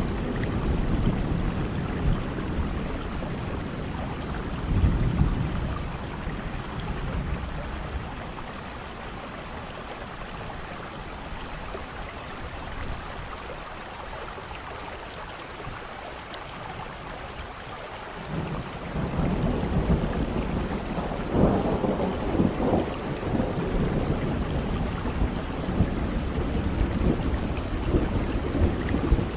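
Steady rain with rolling thunder. The rumbling dies down about a quarter of the way in, leaving mostly rain. Thunder rolls in again about two-thirds through, loudest shortly after it returns.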